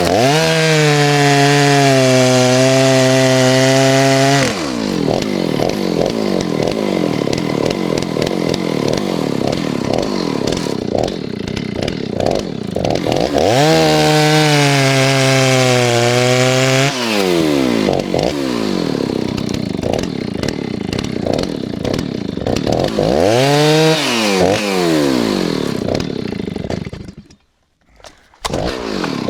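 Stihl 039 two-stroke chainsaw bucking firewood. It revs to full throttle, then drops in pitch as it bogs under load in each cut, over several cuts. It falls silent for about a second near the end.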